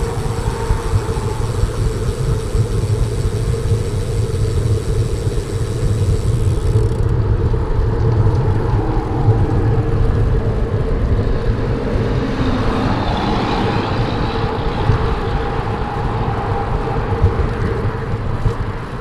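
Wind buffeting the microphone and tyre noise from a road bicycle ridden along a concrete sidewalk, with motor traffic on the highway alongside. One vehicle swells and fades about two-thirds of the way through.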